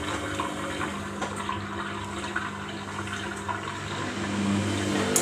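Samsung front-loading washing machine taking in cold water to cool the wash down: a steady rush of water into the drum over a low, even hum.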